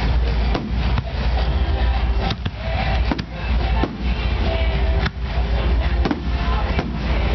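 Aerial firework shells bursting in a dense barrage, sharp bangs at irregular intervals over a continuous low rumble, with music playing along.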